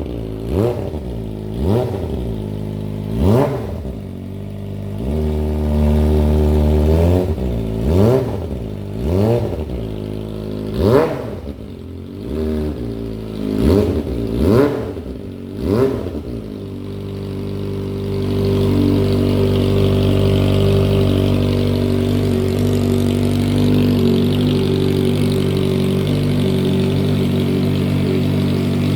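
Kawasaki ZX25R's 250 cc inline-four running through a Franz pro race aftermarket muffler, blipped about eleven times in quick succession, each rev rising and falling back. About 18 seconds in, it settles into a steady, louder held note at raised revs.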